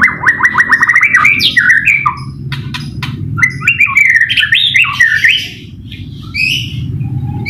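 White-rumped shama (murai batu) singing loudly. It opens with a fast run of about ten repeated notes a second, then moves into varied whistled phrases with rising and falling slurs and sharp clicks. A low steady hum runs underneath.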